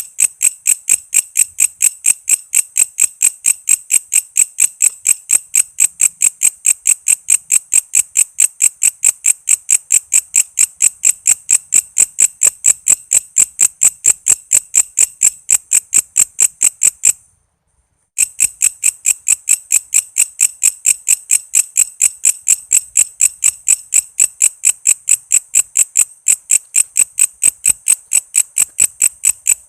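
Walang kece insect calling: a loud, even train of sharp chirps, about five a second, broken once by about a second of silence past the middle.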